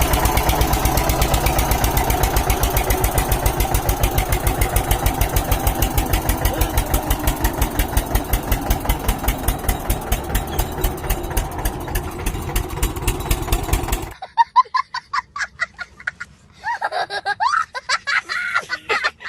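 Tractor diesel engine running with a fast, steady, even beat. It cuts off suddenly about fourteen seconds in, and short, broken, pitch-bending sounds follow.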